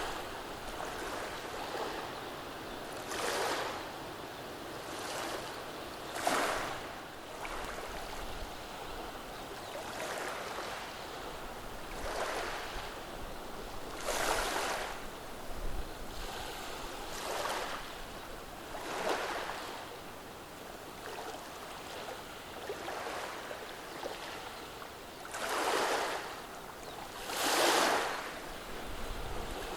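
Small, gentle waves washing over a beach of rounded cobble-sized stones, each surge a brief rush and hiss of water through the stones, coming every two seconds or so over a steady background wash. The two strongest surges come near the end.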